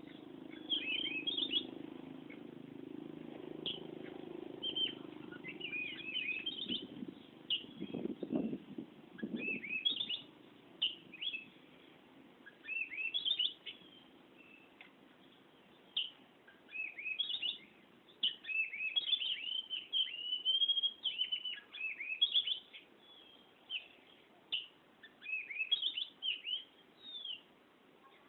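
Oriental magpie-robin singing in full, continuous voice: a rapid, varied run of whistles and chirps. There is a low hum under the song for the first ten seconds, and a couple of dull knocks about eight and nine seconds in.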